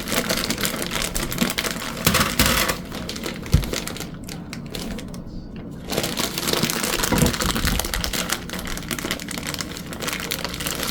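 Rapid clicking and crinkling as frozen chicken nuggets and their plastic bag are handled, easing off briefly around the middle.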